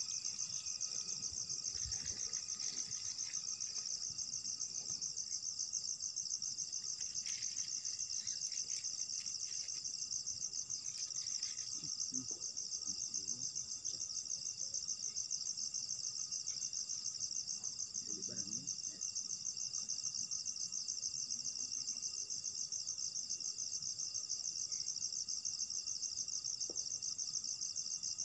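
Continuous insect chorus in forest: a dense, finely pulsing high trill with a few thinner, steady insect tones beneath it. Faint rustles and small knocks come now and then.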